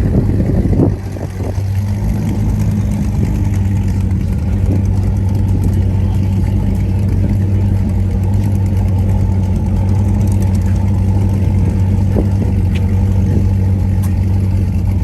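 Car engine idling steadily with a deep, even hum, after a brief louder stretch at the very start.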